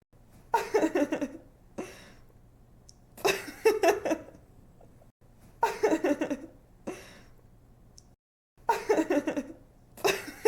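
A young woman giggling and laughing in short bursts of quick ha-ha's, about every two and a half seconds, like a repeated sound-effect sample.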